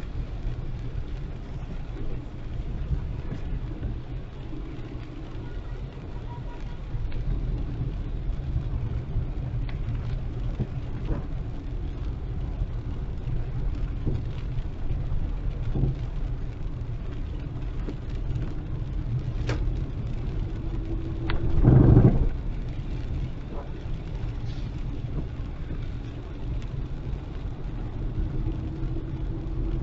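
Steady road and engine noise of a car driving on a wet road in heavy rain. A brief, much louder burst comes about three-quarters of the way through.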